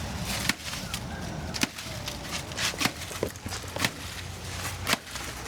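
Machete chopping into a banana plant's trunk: a series of sharp, irregularly spaced blade strikes, about half a dozen.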